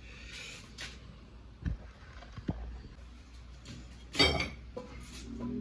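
Bricklaying work sounds: a couple of light knocks, then about four seconds in one loud, ringing clink, with a smaller knock after it.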